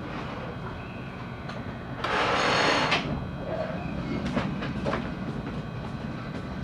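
Interior sound of a JR West 223-series electric train: a steady hum of the car's equipment, with a loud hiss of air lasting about a second, about two seconds in. Scattered sharp clicks and knocks follow.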